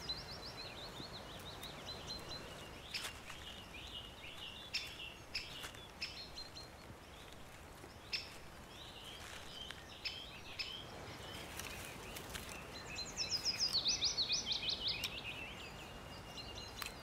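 Forest songbirds singing, many short overlapping chirps, with a loud, fast run of descending notes near the end and a few short clicks.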